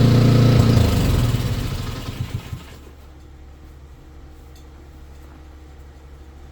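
An engine runs loudly, then dies away over about two seconds, leaving a steady low hum.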